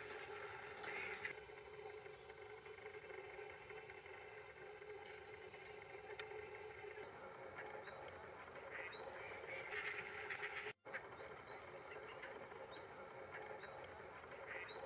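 Wild birds calling at a lake: short, high, rising chirps about every second, with a few harsher, noisier calls mixed in.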